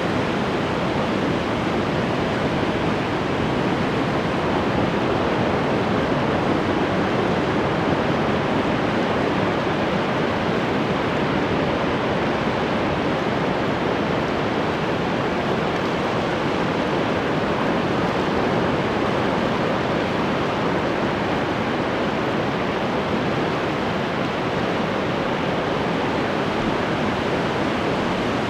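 Ocean surf washing on the shore in a steady, unbroken roar, with no single wave standing out.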